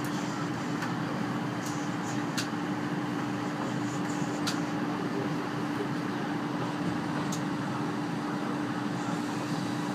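Interior noise of a moving passenger coach running alongside a station platform: a steady rumble with a constant hum and a few faint clicks.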